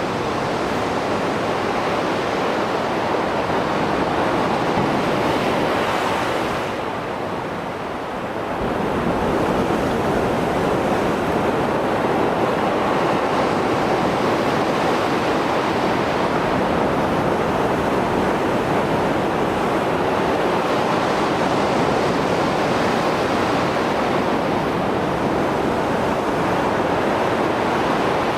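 Rough Mediterranean surf after a storm: waves breaking and washing in a continuous rush, with a brief lull about seven seconds in.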